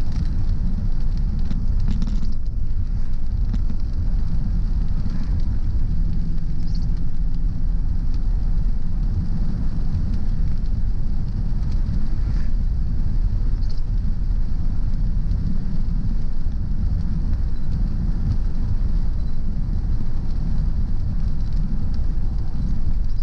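Car driving on wet roads, heard from inside: steady low road and engine rumble with tyre noise, and a few faint ticks.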